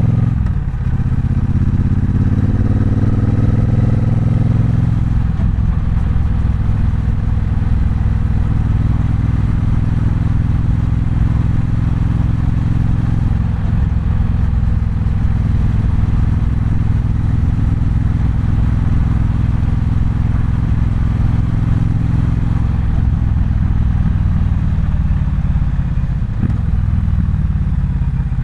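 Triumph Bonneville Bobber's 1200 cc parallel-twin engine under way, the revs rising for the first five seconds, then a brief break as the gear changes, then running at a steady cruise before easing off over the last few seconds.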